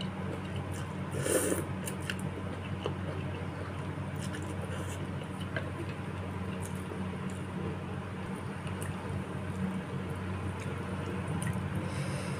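Close-up chewing and wet mouth sounds of someone eating bakso meatballs, with small scattered clicks and a louder squelch about a second and a half in, over a steady low hum.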